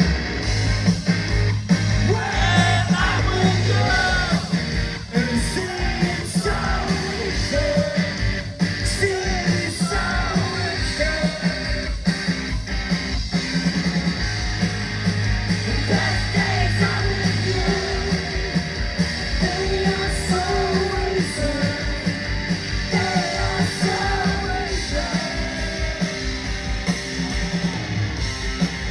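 Live rock band playing loudly: electric guitar, bass and drums keeping a steady beat, with voices singing over it.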